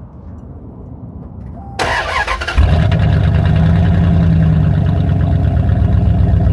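2002 Dodge Ram pickup's engine being started: a brief spell of starter cranking, then it catches about two and a half seconds in and settles into a loud, steady idle. It is running through a custom exhaust with only a newly fitted flex pipe on it.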